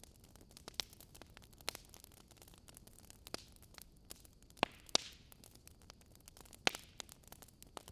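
A fire crackling: a steady stream of small, irregular snaps and pops, with a few sharper, louder pops scattered through, over a soft steady hiss.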